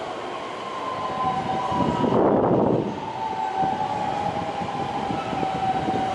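Electric train running, with a steady whine. There is a louder rush of noise about two seconds in.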